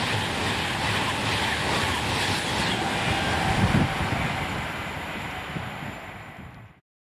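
Class 390 Pendolino electric train passing at speed: a steady rush of wheel and air noise that fades over the last couple of seconds and then cuts off suddenly.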